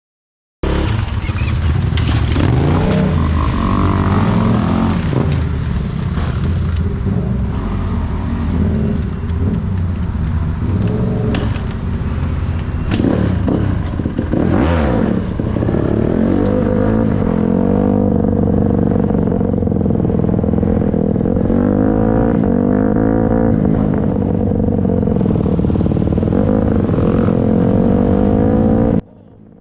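Dirt bike engine running, revved up and down a few times with some knocks and clatter, then holding a steady pitch through the second half.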